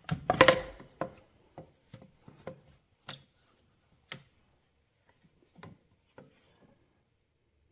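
Rubber air-intake branch tube being pulled off its fitting: a loud scraping rub lasting about half a second, followed by a scattered string of light knocks and small rubs as the parts are handled, dying away near the end.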